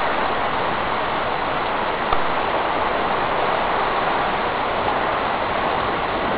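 Heavy rain driven by strong thunderstorm wind gusts, a steady rushing hiss.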